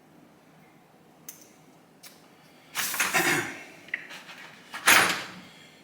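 Quiet workshop room tone, then two loud bursts of rustling, scraping handling noise, one about three seconds in and one about five seconds in.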